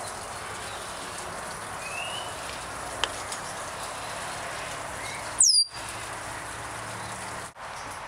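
Parrots giving a few short chirps over a steady background hiss. The loudest is a sharp, high whistle sliding downward about five and a half seconds in.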